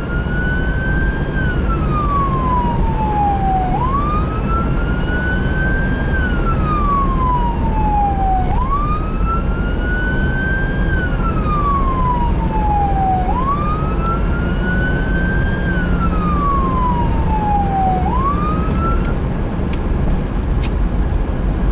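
Emergency vehicle siren on a wail setting, its pitch rising quickly and falling slowly about every five seconds, over the steady rumble of a vehicle. The siren stops about three seconds before the end, and a few clicks follow.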